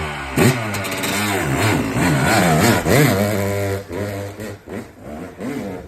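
Dirt bike engine revving up and down through repeated throttle blips. It is loudest in the first three seconds, then drops to quieter, choppier revs near the end.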